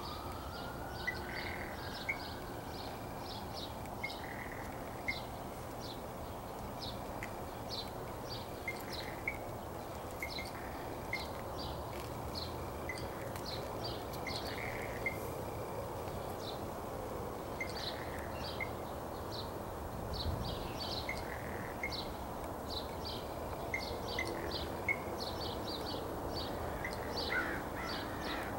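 Birds calling in the trees: many short, high chirps, several a second, with shorter lower notes mixed in, over a steady low background rumble.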